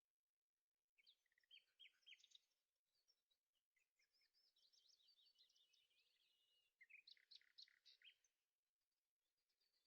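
Very faint birdsong: a second of near silence, then bursts of high chirps, a rapid twittering trill in the middle, and a louder run of sharp notes about seven seconds in.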